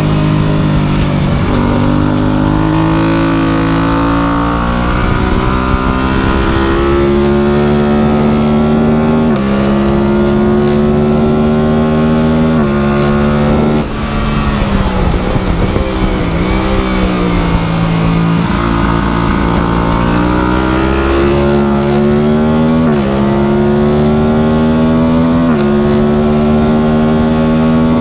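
Motorcycle engine pulled hard through the gears: its pitch climbs steadily and drops sharply at each upshift, several times over. Midway it falls away and then builds up again.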